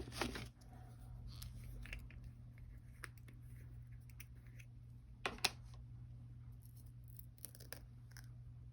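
Faint handling of craft supplies on a work table: scattered small clicks and taps, with two sharper clicks about five seconds in, over a steady low hum.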